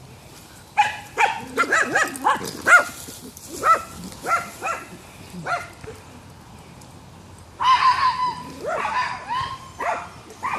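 Dogs barking in quick runs: a flurry of barks starting about a second in, a short lull, then another burst of barking near the end.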